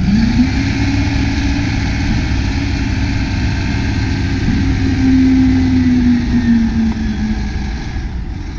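Mack MP7 diesel engine running at raised revs to drive the hydraulics as the dump body is raised. It gives a steady loud run with a whining tone that climbs at the start and climbs again about four and a half seconds in.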